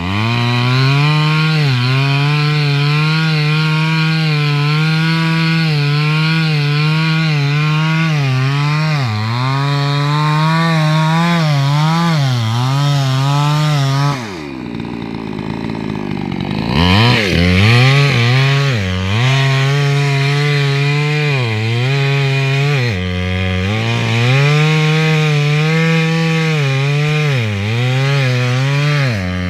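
Two-stroke chainsaw running hard and cutting wood, its engine pitch rising and falling as the saw bogs and frees in the cut. About halfway through it drops back toward idle for a couple of seconds, then revs up and cuts again.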